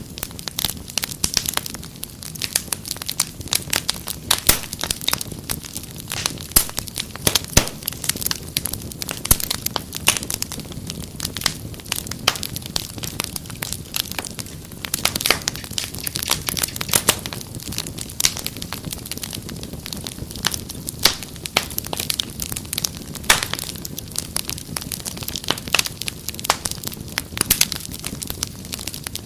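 Wood fire crackling: dense, irregular pops and snaps over a low steady rumble.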